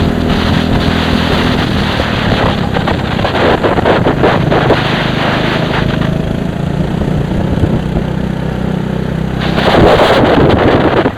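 A racing vehicle's engine running steadily under heavy wind buffeting on the microphone. The wind noise swells louder near the end.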